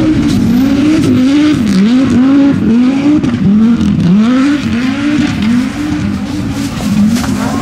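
Audi Sport Quattro S1 E2's turbocharged five-cylinder engine revving up and down over and over as the car drifts on snow, with a loud surge about every half second.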